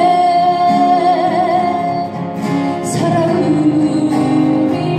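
Female voice singing a Korean folk song over acoustic guitar, holding a long note with vibrato and then another held note about three seconds in.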